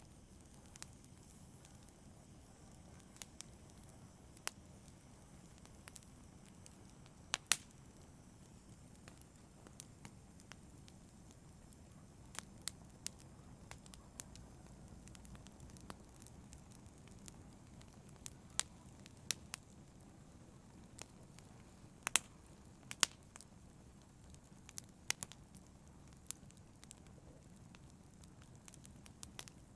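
Wood fire burning, with a low steady rumble under irregular sharp crackles and pops, a few louder pops among them.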